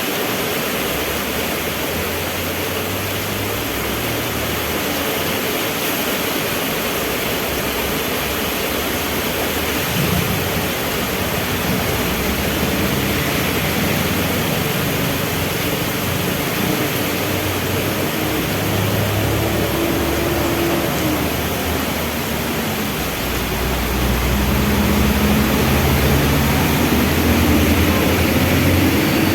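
Heavy rain falling steadily, with the low hum of vehicle engines at a traffic light underneath. Near the end the engine sound grows louder and its note climbs as traffic moves.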